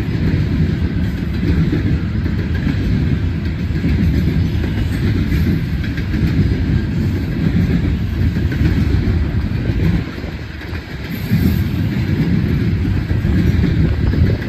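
Loaded coal hopper cars of a freight train rolling past: a steady rumble and clatter of steel wheels on the rails, dipping briefly about ten seconds in.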